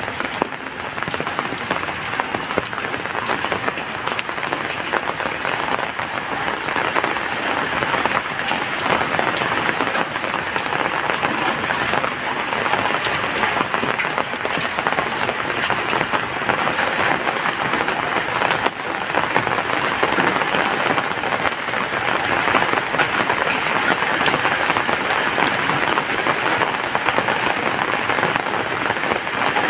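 Rain falling steadily, an even, dense patter that grows a little louder through the second half.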